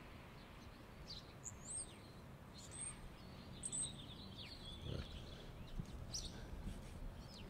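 Quiet outdoor ambience with faint, scattered bird chirps: a handful of short, high calls with quick pitch slides, over a low steady background.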